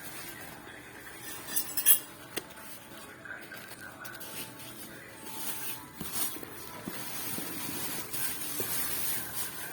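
Hard objects clinking and knocking as they are handled, with a few sharp clicks about two seconds in, then a steadier rustling with small knocks during the second half.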